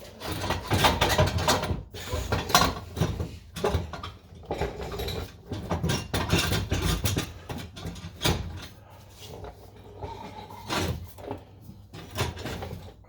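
Irregular metal clanks, knocks and rattles of exhaust parts and hand tools being handled and shifted during exhaust work.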